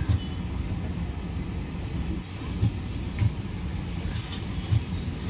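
Indian Railways passenger coaches rolling along the track: a steady low rumble of wheels on rail, with a few heavy thumps at irregular intervals.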